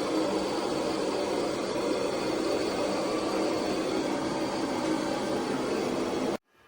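Robot vacuum mop running with a steady motor whir and rush of air, stopping abruptly about six seconds in.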